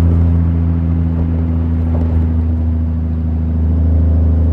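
Dodge Ram's Cummins turbo-diesel engine running steadily while driving, heard from inside the cab as a loud, constant low drone.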